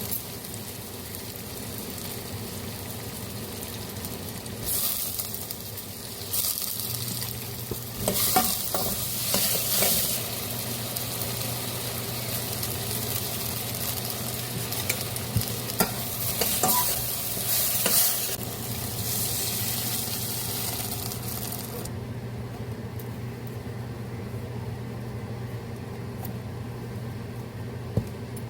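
Food sizzling in a hot pan, with spatula stirring and scraping strokes in bursts. The sizzle stops abruptly about three quarters of the way through, leaving a low steady hum that began a few seconds in.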